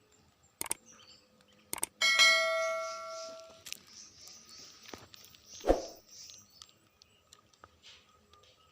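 A single bell-like metallic ring about two seconds in, dying away over a second and a half, among a few sharp clicks and one dull thump, with faint high chirping throughout.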